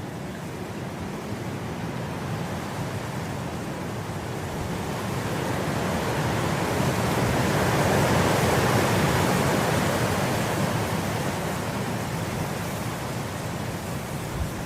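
Wind blowing through grass in a long gust that builds to its strongest about eight seconds in, then dies back down.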